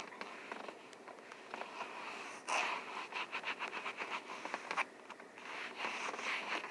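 Quick back-and-forth scrubbing of a wipe over a car's interior surfaces, about five strokes a second, in two runs with a short pause between.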